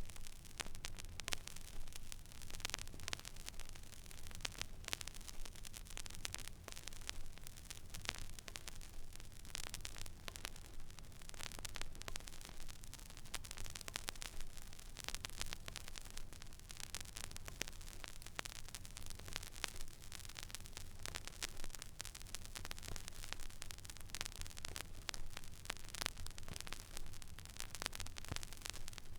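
Stylus riding an empty vinyl record groove: soft surface hiss with frequent small crackles and pops, over a low steady hum.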